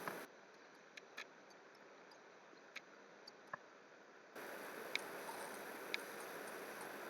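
Scattered computer mouse clicks and key taps, about seven in all, over a faint steady microphone hiss that cuts out for a few seconds near the start and comes back about four seconds in.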